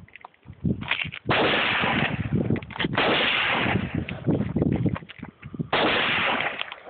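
AR-15 rifle fired in single shots, several a second or two apart, each shot followed by a long echo.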